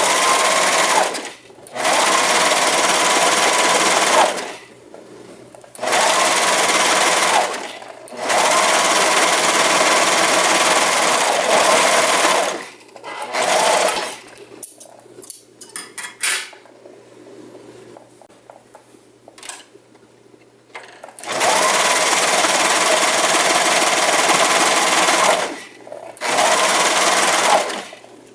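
Electric sewing machine stitching in repeated runs of a few seconds each, its motor speeding up at the start of each run and stopping between them, with light clicks of handling in the pauses.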